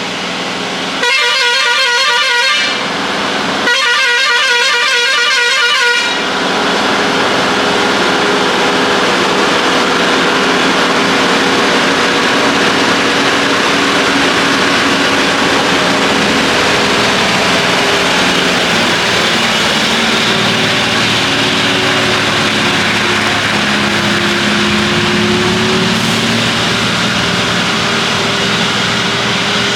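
Heavy lorry sounding its horn twice with warbling blasts of about one and a half and two seconds, then its diesel engine pulling steadily in first gear up a steep hairpin climb, the engine note shifting slowly.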